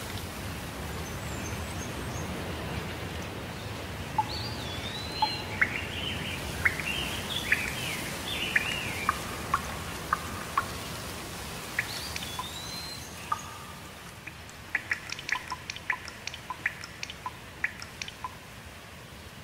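Steady rain with birds calling over it: slurred whistled notes and chirps, then a quick run of short sharp chirps in the last few seconds, as the rain gets a little lighter.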